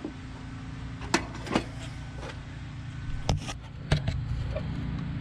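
A few sharp metal clicks and knocks from the throttle linkage and its cable clips being worked by hand, over a steady low hum.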